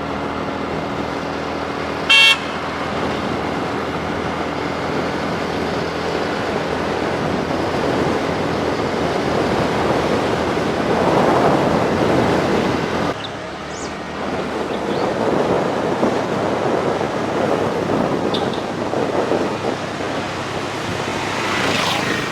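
A vehicle horn gives one short, loud toot about two seconds in, over the steady road and wind noise of a motorcycle ride.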